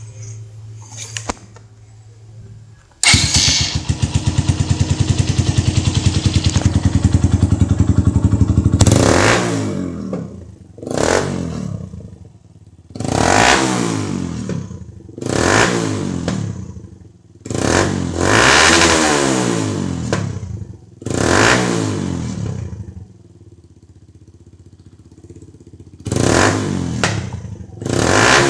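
Suzuki EN125 single-cylinder four-stroke motorcycle engine through a Fortuna F1 Mini aftermarket sport exhaust. It idles, then jumps about three seconds in to a loud, steady higher speed held for about six seconds. After that comes a series of quick throttle blips, each rev rising and dropping back to idle.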